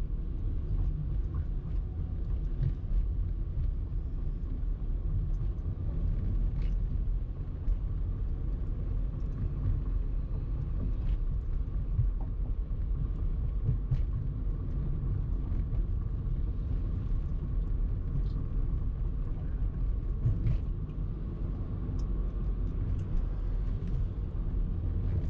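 Car driving in traffic: a steady low rumble of engine and road noise.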